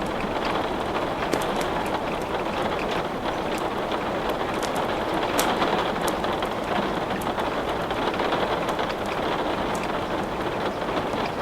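Steady rain, with scattered sharp crackles from wood burning in a fireplace.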